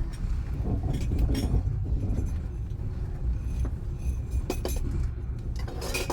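Low, steady rumble of a moving passenger train heard from inside the carriage, with a few light clinks and clicks from small objects, a cluster of them a little past halfway and again near the end.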